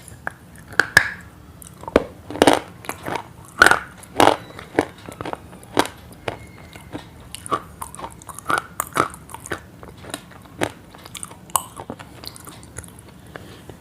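Close-up chewing with sharp, irregular crunches as something crisp is bitten and chewed.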